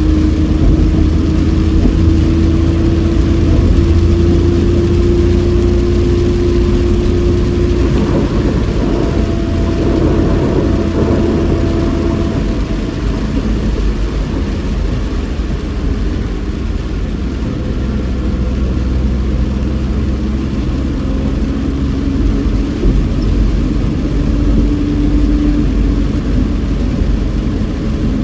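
Car engine and road noise heard from inside the cabin while driving, a low steady rumble with an engine drone that climbs slowly in pitch through the first half, then fades, and returns briefly near the end.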